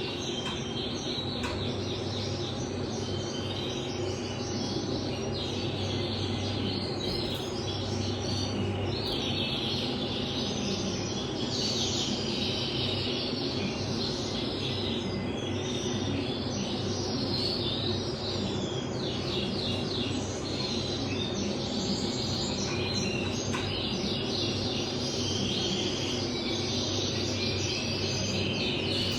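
Male cinnamon pastel red mosaic canary singing a long, almost unbroken song of rapid trills and chirps, over a steady low hum.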